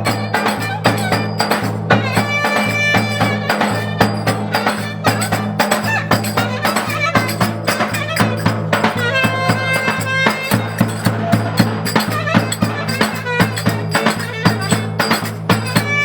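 Turkish folk dance music: a reedy wind melody with gliding notes over a steady low drone, driven by a steady, fast percussion beat.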